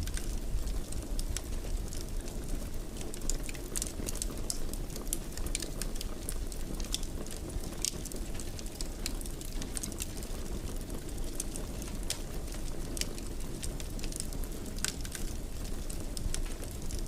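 Wood fire in a fireplace crackling, with frequent irregular sharp pops and snaps over a steady low rumble of the burning.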